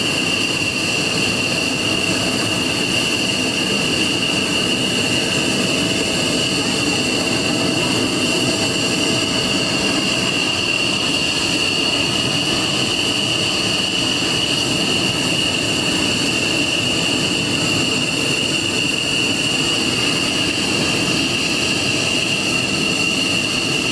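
Jet engine running steadily: a loud rushing noise with a high steady whine that holds unchanged throughout.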